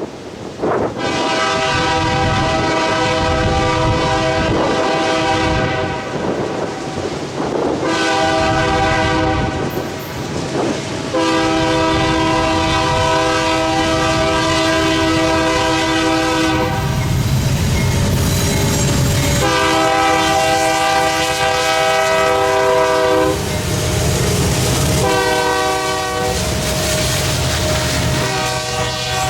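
A freight locomotive's multi-note air horn sounds a series of long blasts, with a shorter blast near the end. Between the blasts the train rumbles and its wheels clack over the rail joints.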